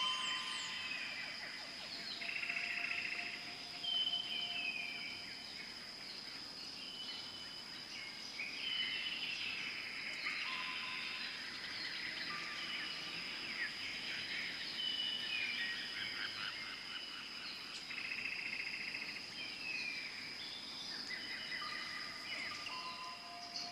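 Many birds calling at once: clear whistled notes held on one pitch, short downward-slurred calls and rapid buzzy trills, overlapping throughout. A steady high insect drone runs beneath.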